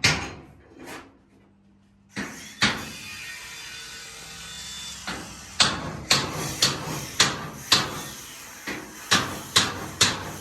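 Hammering at a construction job: a few scattered hammer blows, then from about halfway a steady run of about two blows a second. A constant background noise of machinery comes in about two seconds in and runs underneath.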